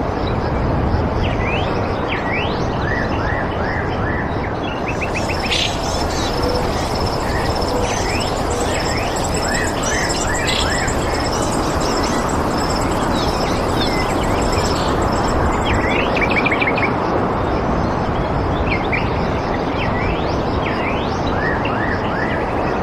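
Several birds chirping in short, quick rising and falling calls over a steady, even rushing noise. Between about 5 and 15 seconds in, a high, fast trill runs along with them.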